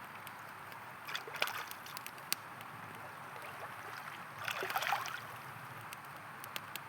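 River water flowing steadily, with campfire wood crackling in sharp pops. About four and a half seconds in, the water gives a louder half-second gurgle.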